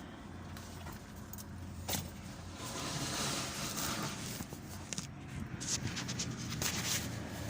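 Vehicle engine running steadily, with a cluster of small metallic clinks about five to six seconds in.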